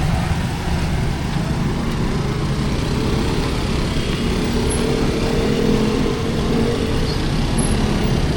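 Street traffic: motor vehicle engines running close by, a steady low rumble with an engine note that rises and falls a little.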